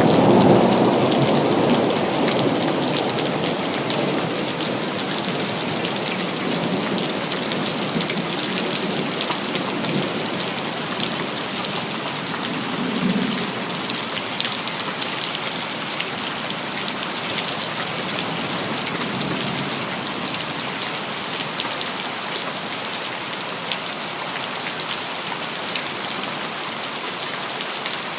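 Steady rain falling on city surfaces. A low thunder rumble at the start fades away over the first few seconds, and a shorter, fainter rumble comes about halfway through.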